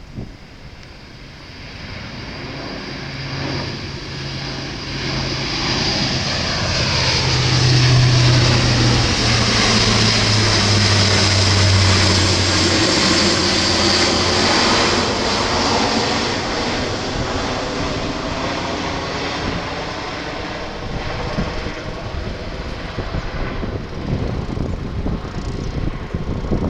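Airbus A400M Atlas's four turboprop engines and propellers passing low. The sound grows louder over several seconds and peaks, the propeller hum drops in pitch as it goes by, and it then eases off while staying fairly loud.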